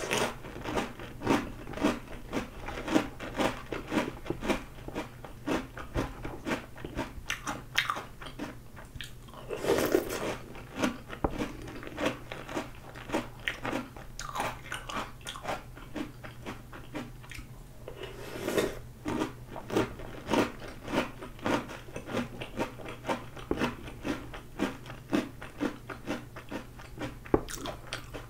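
Close-miked crunching and chewing of Oreo O's cereal in milk, a rapid, steady run of short crisp crunches. A louder, hissier sound comes as each new spoonful is taken in: at the start, about ten seconds in and again near eighteen seconds.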